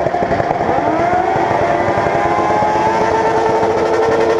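Motorcycle engine revved up over about a second and then held at high revs, a steady high-pitched engine note.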